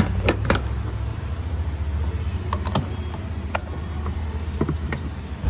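Mercedes-AMG GLS 63's twin-turbo V8 running with a low, steady rumble that fades near the end, with several sharp clicks and knocks over it.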